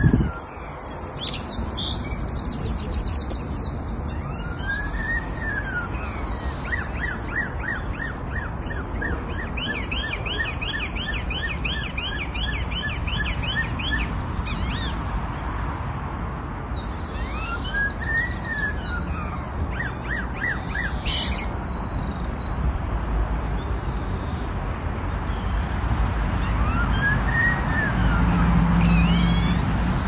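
A bird singing in a tree and imitating a police siren: a few slow rising-and-falling wails, each about a second long, woven among high twittering chirps and a long run of fast repeated notes partway through.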